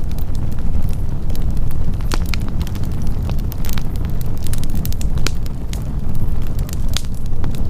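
Wood campfire burning, with frequent irregular sharp crackles and pops over a steady low rumble.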